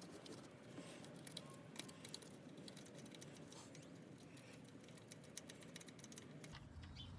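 Near silence, with faint scattered small clicks and light rattles.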